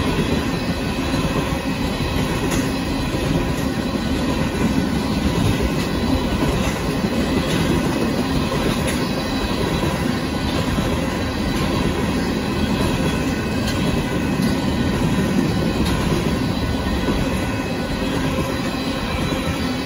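Freight train of tank cars rolling steadily past, with a continuous rumble and clatter of steel wheels on the rails.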